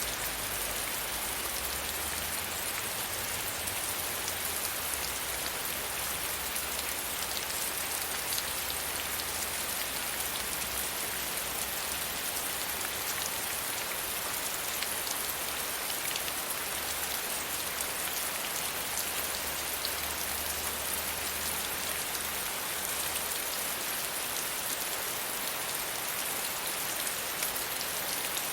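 Steady rain, with many small drops pattering on a surface.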